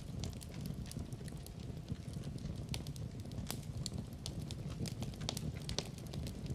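Wood fire burning with a steady low roar and frequent irregular sharp crackles and pops.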